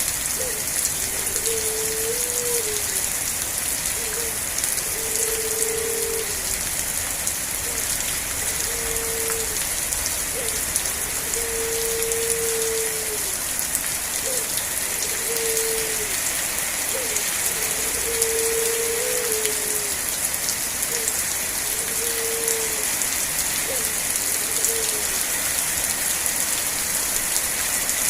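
Steady heavy rain hissing on surfaces. Through it, a low held tonal call repeats over and over, some notes dipping at the end, until it stops near the end.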